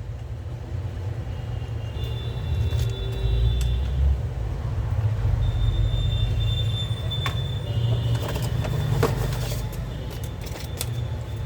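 A steady low background rumble with a few light clicks and taps scattered through it.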